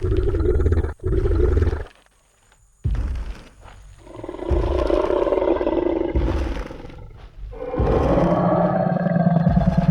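Sound-effect Tyrannosaurus rex: two heavy low hits in the first two seconds, then a long roar about four seconds in, and a second, deeper roar starting about eight seconds in.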